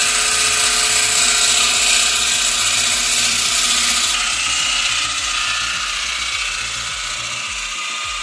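A machine running steadily with a mechanical clatter that pulses a few times a second under a steady whine.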